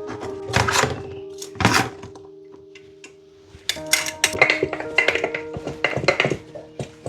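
Knocks and clatter of salted shredded cabbage being packed and tamped down into a glass jar with a cocktail muddler: two thumps in the first two seconds, then a quicker run of knocks from about four seconds in. Background music with held notes plays under it.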